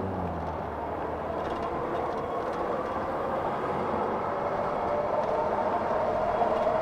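Electric e-bike motor whining under power, its pitch and loudness slowly rising as the bike picks up speed, over wind and road noise. A low hum fades out in the first couple of seconds.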